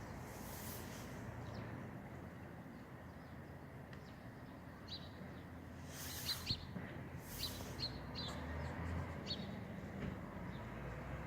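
Small birds chirping in short, scattered calls, mostly in the second half, over a steady low rumble of outdoor background noise, with a few brief hissing gusts of noise.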